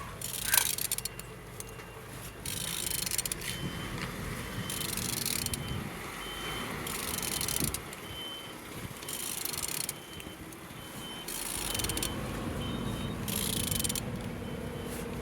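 N12B14A engine being turned over by hand with a wrench, in about six strokes of roughly a second each, showing that it turns freely. A faint reversing beeper and a low vehicle hum sound in the background.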